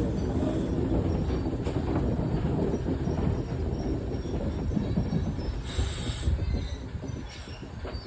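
Heritage railway carriage running on the track: a steady rumble of wheels on rail, with a brief high wheel squeal about six seconds in, and the noise easing off near the end.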